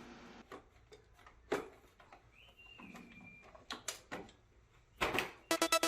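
Quiet room with a few scattered knocks and clicks and a brief faint high tone partway through. Near the end, background music with a fast, even beat begins.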